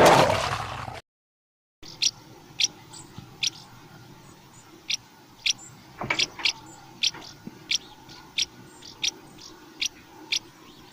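Music fades and stops about a second in. After a short silence, short high-pitched animal chirps repeat irregularly, about one or two a second.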